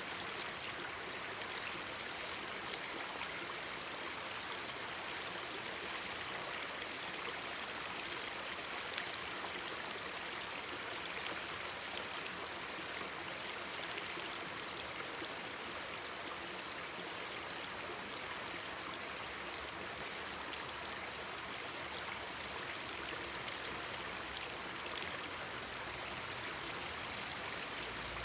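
Mountain stream babbling steadily, an even rush of flowing water.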